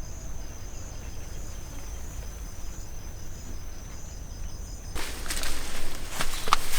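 Insects buzzing steadily in a high, pulsing drone over a low outdoor rumble; about five seconds in this gives way to a run of dry crackling, rustling and snapping.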